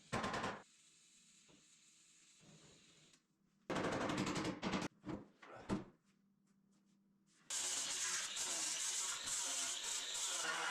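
A few short bursts of knocking and handling noise from work on a dented sheet-metal excavator hood: one at the start and a cluster a little past halfway. Background music starts about three-quarters of the way through and carries on.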